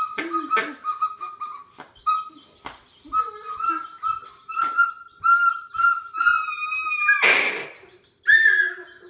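Toy bird-call whistle blown in a run of short whistled notes at a steady pitch, a few per second, with a longer, higher note about six seconds in. A loud breathy rush follows near the end.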